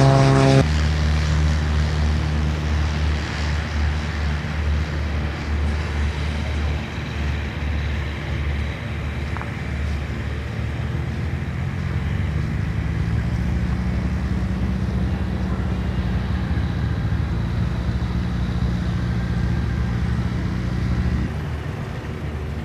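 A loud propeller-aircraft engine that cuts off about half a second in. It gives way to a steady, low engine drone whose pitch rises slightly partway through.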